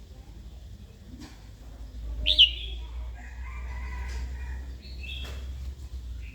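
Female red-whiskered bulbul calling: a loud, sharp high note about two seconds in, followed by lower, drawn-out warbling notes and another short high call near the end.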